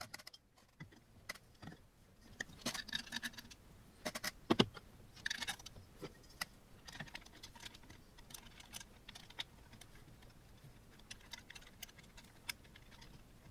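Scattered clicks and short light metallic rattles of screws, a hex key and metal frame parts being handled while a 3D printer kit is put together.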